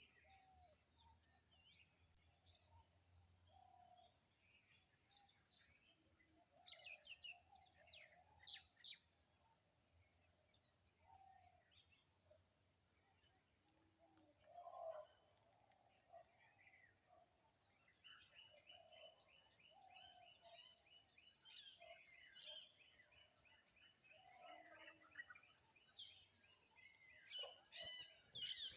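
A steady, unbroken high-pitched insect trill, with scattered bird chirps and calls over it. In the last third a bird gives a fast, repeated run of notes.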